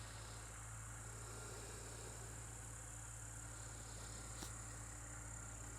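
Evening crickets chirping in a steady, continuous high-pitched chorus.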